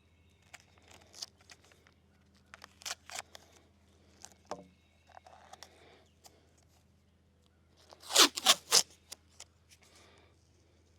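Tape being pulled off a roll and torn in short rips and crackles, with the loudest group of three quick rips about eight seconds in.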